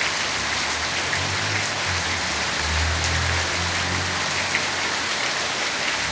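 Heavy rain falling, a steady dense hiss of drops with a faint low hum partway through.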